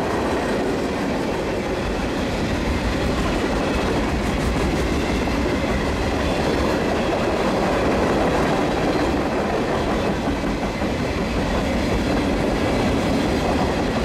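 Mixed freight cars of a Union Pacific manifest train passing at speed: a steady, unbroken noise of steel wheels rolling on the rails.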